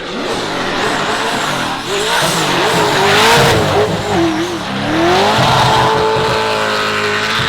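Drift car engine at high revs, its pitch swinging up and down as the throttle is worked through a slide, over the hiss of tyres spinning on the wet track. About five seconds in the revs climb and then hold high as the car powers on.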